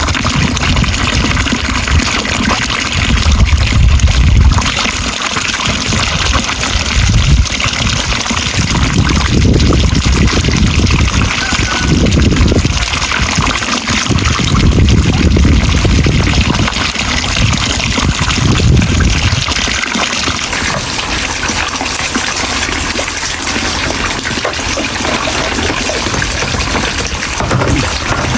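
Water splashing and trickling, with heavy low swells that come and go every second or two.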